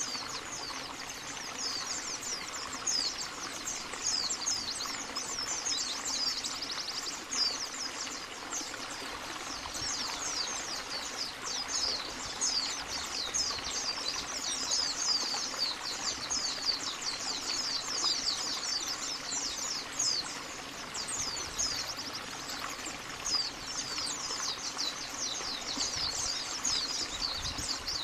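Many white-eyes (pleci, Zosterops) chirping and twittering together, a dense, unbroken chatter of short, high, falling chirps like a flock calling.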